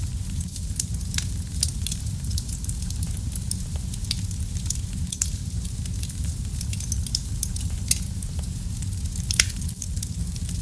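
Wood fire burning in a fireplace: a steady low rumble of flames under frequent sharp crackles and pops, with one louder pop near the end.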